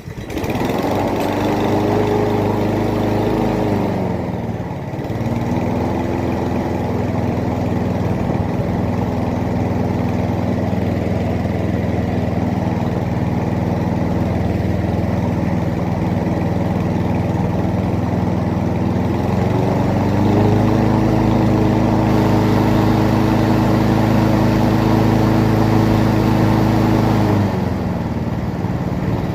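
WOLF petrol lawnmower engine starting and running, run briefly after an oil change so the fresh oil circulates. Its speed drops about four seconds in, rises again around twenty seconds in, and drops back near the end.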